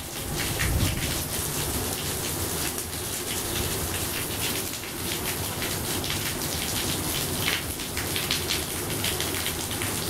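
Steady rain falling and splashing, with many individual drops heard in the hiss. There is a brief low rumble about a second in.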